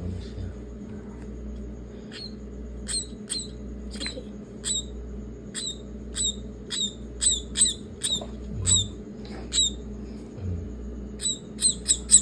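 Young pet maya bird chirping: short, sharp, high calls, about two a second from a couple of seconds in, coming faster near the end, over a steady low hum.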